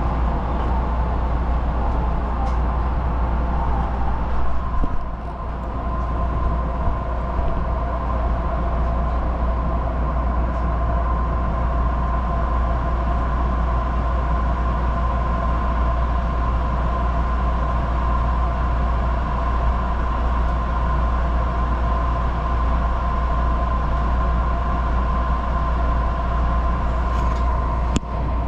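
Odakyu Hakone line local electric train running at steady speed, heard from the driving cab: a continuous rumble of wheels and running gear with steady mid-pitched tones over it. A short sharp click comes near the end.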